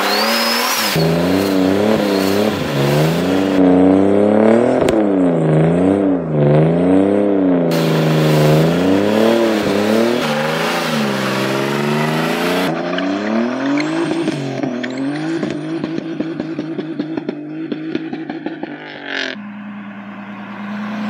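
Turbocharged BMW M50 straight-six in an E36 revving hard during a burnout, its rear tyres spinning to heat them. The revs surge up and down over and over, then drop away with rapid popping and settle to a steady idle near the end.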